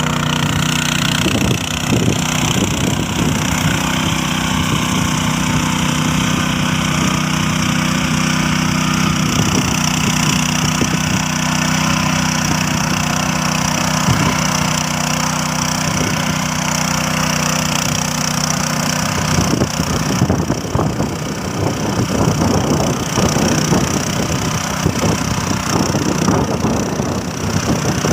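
Tractor engine running with a steady note. About twenty seconds in, the steady hum gives way to a rougher, uneven clattering.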